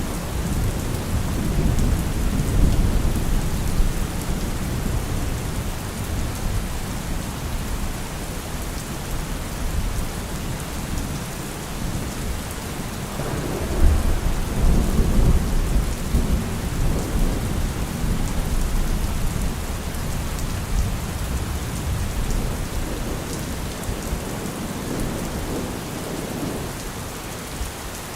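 Thunderstorm: steady rain falling throughout, with thunder rumbling low and rolling in swells. A louder thunder peal breaks in about halfway through and rumbles on for several seconds.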